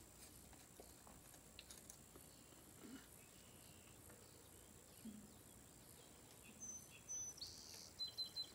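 Near silence, broken by a few faint small clicks and taps of screws and a screwdriver being handled, with brief faint high-pitched tones near the end.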